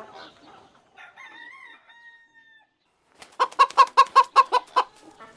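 Cartoon hen clucking in a fast, even run of about a dozen clucks, starting about three seconds in. Before it comes a faint held tone.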